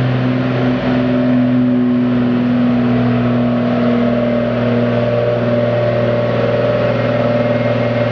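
1995 Dodge Ram 3500 pickup engine held at high revs under heavy load while pulling the sled, a loud, steady note that drops away at the very end.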